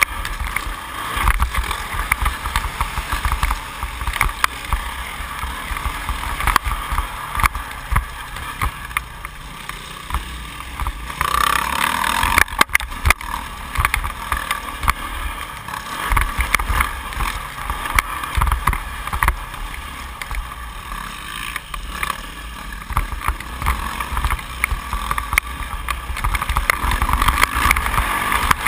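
A 2008 Yamaha YZ450F's four-stroke single-cylinder engine pulls and backs off as the motocross bike is ridden around the track, with heavy wind buffeting. About twelve seconds in the engine surges, followed by a couple of sharp knocks.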